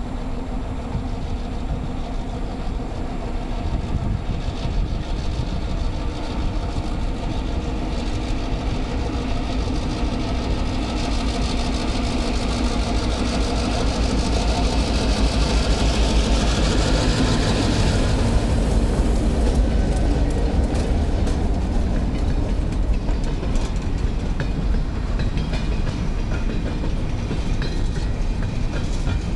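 Diesel freight locomotives approach and pass with their engines running, loudest in the middle. Then the freight cars roll by, their wheels clicking steadily over the rail joints.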